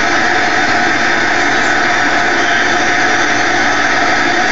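Airliner cabin noise: the plane's engines running, heard from inside the passenger cabin as a steady, even rush.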